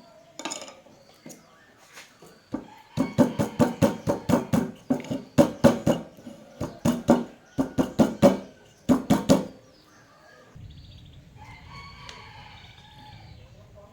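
A rapid series of sharp, ringing knocks, about three a second, for some seven seconds. After a pause, a rooster crows near the end over a low background hum.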